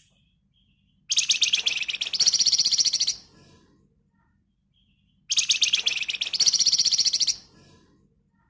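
Flamboyan songbird singing two dense, rapid rattling trills ('ngebren rapat'), each about two seconds long and a couple of seconds apart. Each trill steps up in pitch about halfway through.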